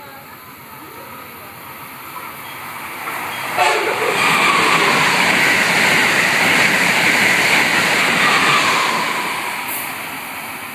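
Amtrak Acela Express high-speed electric train passing through a station: its noise builds gradually, turns suddenly loud as the train reaches the microphone about three and a half seconds in, holds for about five seconds as the cars go by, then fades.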